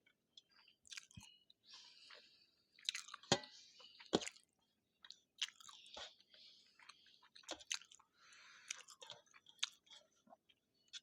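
Close-miked chewing of jeera rice and spicy potato bhaji: irregular wet mouth clicks and smacks with brief crunchy bites.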